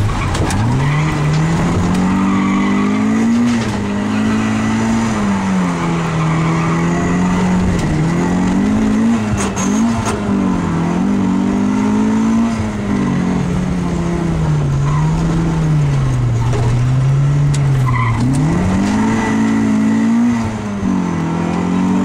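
Opel Kadett C rally car's four-cylinder engine at stage pace, heard from inside the cabin. The revs climb and drop again and again, every couple of seconds, through gear changes and corners.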